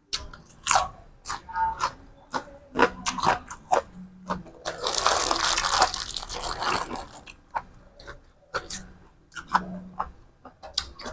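Close-up chewing and crunching of food, with sharp bites throughout and a dense stretch of crunching in the middle.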